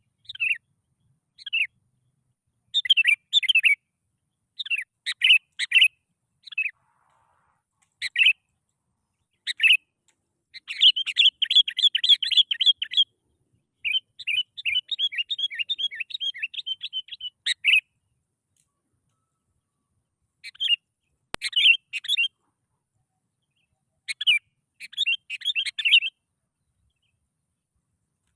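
Sooty-headed bulbul song: short, bright, bubbly phrases of chirps with clean silent gaps between them, and two longer chattering runs about a third and halfway in. A single sharp click comes partway through.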